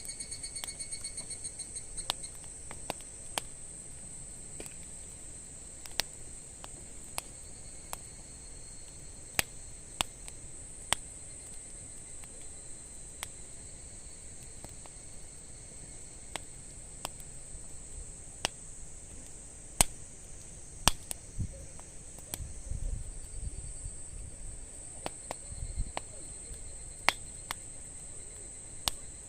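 A wood campfire crackling, with sharp pops at irregular intervals, over a steady high-pitched trill of insects.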